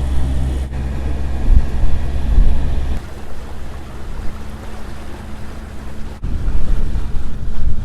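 A sailboat's inboard engine running with a steady low drone, with wind buffeting the microphone. The drone drops lower about three seconds in and comes back up about six seconds in.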